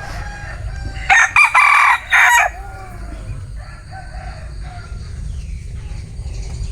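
Bantam rooster crowing once, loud, about a second in and lasting about a second and a half, followed by fainter calls. A low steady rumble runs underneath.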